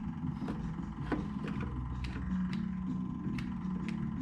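Tractor engine idling steadily, with a sharp click about twice a second.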